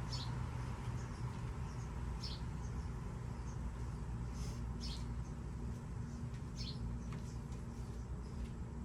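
Short, high bird chirps every second or two over a steady low hum.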